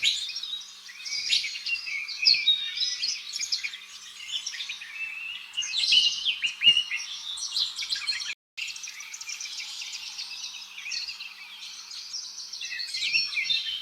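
Small songbirds chirping and trilling, many quick overlapping high-pitched calls, with a brief break just past the middle.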